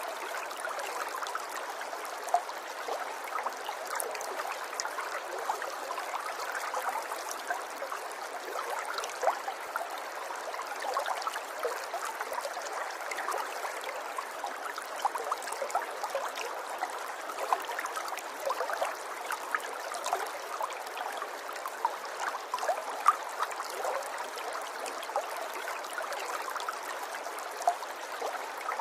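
River water flowing over stones, a steady babble with constant small splashes and trickles.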